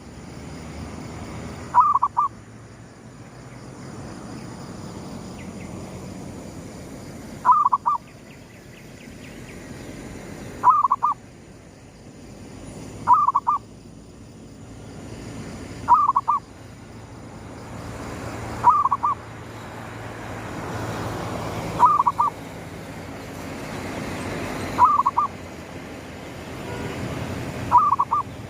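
Zebra dove (perkutut) cooing, singing short phrases of a few quick notes, nine times at intervals of about three seconds, over a low background rumble.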